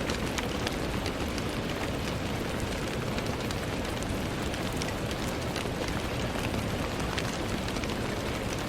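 Steady rain falling on a window, a dense even hiss with many small sharp taps of individual drops scattered through it.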